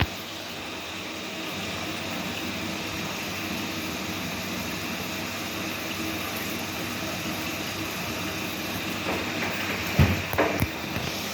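Whirlpool washing machine running through its spin cycle with a steady motor and drum hum. A few sharp knocks come about ten seconds in.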